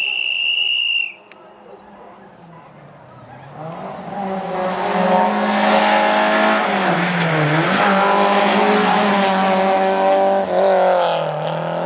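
A shrill steady tone for about a second, then after a short lull a rally car's engine builds up loud at high revs as it comes through the stage, its pitch dipping briefly twice as the driver lifts or changes gear.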